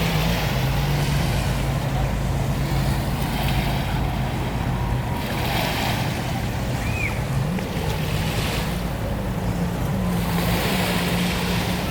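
A motorboat engine running with a steady low hum. Its pitch drops about a second in and climbs back near eight seconds, over a constant wash of water.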